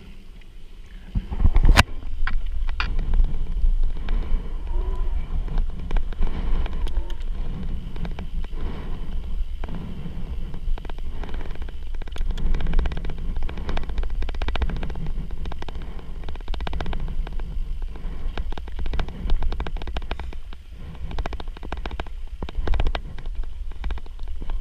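Bicycle riding over a rough dirt trail: a steady low rumble of wind on the microphone under frequent small rattles and knocks from the bike, with one sharp loud knock about two seconds in.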